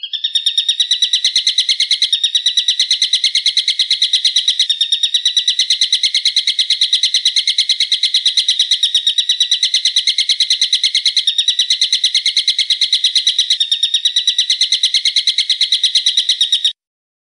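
A bird call: a rapid, even trill of sharp high notes, several a second, held without a break for about sixteen seconds, with small jumps every few seconds where a recording is spliced or looped. It cuts off suddenly near the end.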